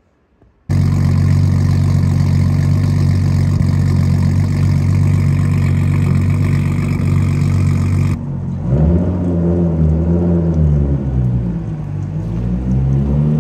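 Nissan Skyline R32's turbocharged RB20DET straight-six running at a steady idle through its exhaust. About eight seconds in, the sound switches to the car driving off, the engine note rising and falling as it is revved.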